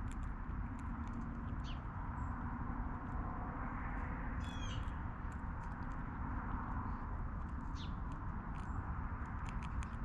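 Backyard birds give short calls three times, with a harsher several-note call in the middle, over a steady low outdoor rumble. Scattered light clicks run underneath.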